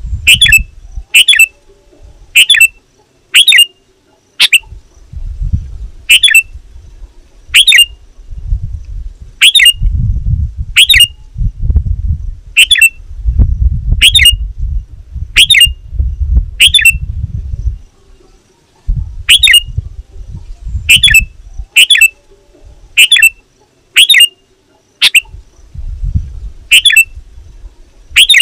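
Sooty-headed bulbul (kutilang) giving a loud, fast series of short, sharp calls, about one a second, as used for a lure call. A low rumble comes and goes underneath.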